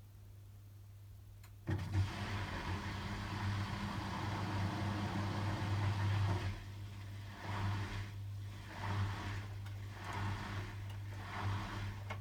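Hotpoint WMFUG 942 front-loading washing machine in its intermediate spin: a single click, then it starts up abruptly with a strong steady hum and a rush of water being pumped out. From about halfway the sound swells and fades roughly once a second.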